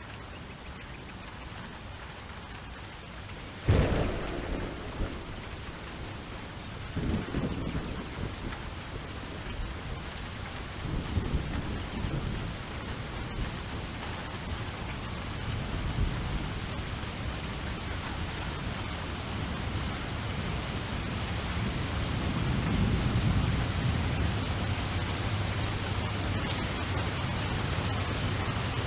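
Steady rain hiss with thunder. A sudden loud clap comes about four seconds in, followed by rolling rumbles, the longest about two-thirds of the way through.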